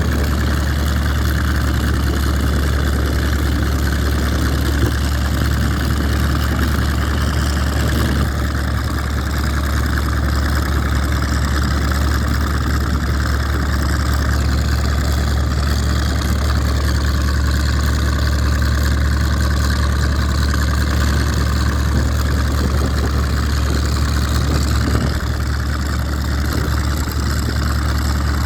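Hawker Sea Fury's large radial piston engine running steadily on a ground test run: a deep, even drone that holds one pitch, dipping slightly in level about eight seconds in.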